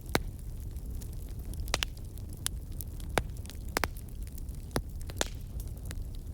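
Wood fire burning in a fireplace, with a steady low rumble and irregular sharp crackles and pops, about a dozen in a few seconds.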